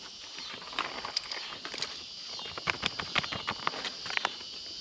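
Irregular small clicks and rattles, several a second and loudest around the middle, over a steady high drone of insects.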